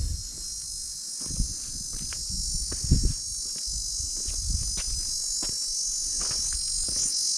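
Grasshoppers and crickets trilling in a steady, high-pitched insect chorus, with irregular low thumps of footsteps and wind on the microphone beneath.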